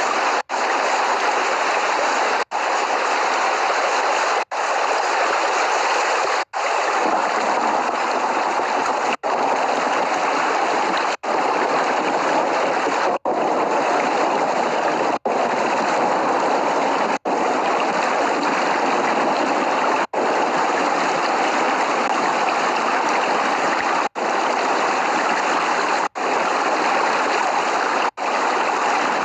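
Steady, even rain noise with no thunder, cut by a very brief dropout to silence about every two seconds, like a short recording looped end to end.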